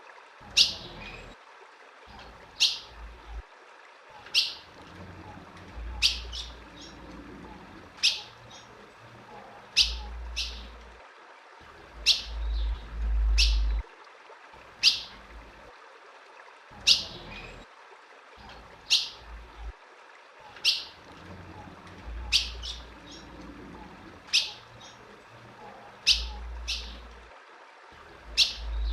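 Female ultramarine grosbeak (azulão) giving short, sharp chip calls, one about every two seconds, some followed by a fainter extra note. A low rumble comes and goes beneath the calls.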